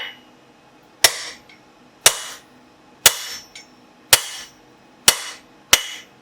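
Six hand-hammer blows on hot steel at the anvil, about one a second with the last two closer together, each with a short metallic ring. The blows are cutting through the bar, hard enough to sever it completely.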